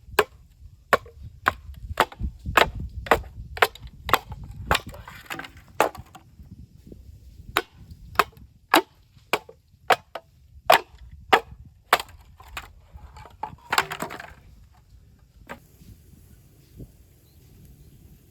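Bamboo being chopped and split with a blade: sharp, woody strikes about two a second, with a short pause about six seconds in. The strikes stop after about twelve seconds, followed by a brief splintering crackle near fourteen seconds.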